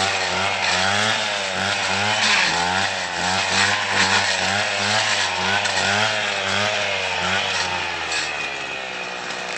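Petrol brush cutter running while cutting brush, its engine speed rising and falling over and over as it works. It eases off and fades near the end.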